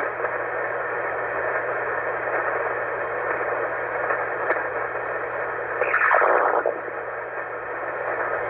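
Shortwave receiver on the 20-metre band putting out steady single-sideband static and band noise while the net frequency sits open waiting for check-ins, with a brief garbled burst about six seconds in.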